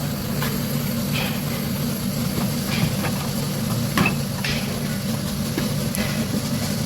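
A machine running with a steady low hum, with scattered light clicks and taps, the sharpest about four seconds in.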